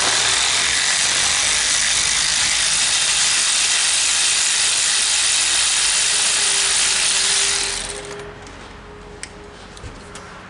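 Loud, steady rush of compressed-air noise from a shop air tool or blowgun; it starts suddenly and dies away after about eight seconds.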